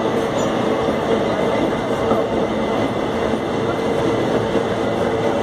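Empty ore train rolling past on the track: a loud, steady rumble of wheels and wagons on the rails.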